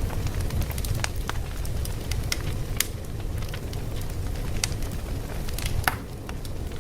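Wood fire crackling: a steady low rumble with irregular sharp pops and snaps, one louder pop about six seconds in.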